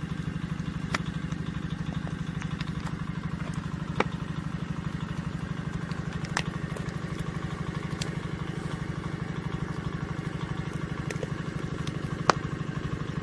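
Engine powering a hydraulic rock splitter, running steadily with a fast, even pulse, with a few sharp clicks over it.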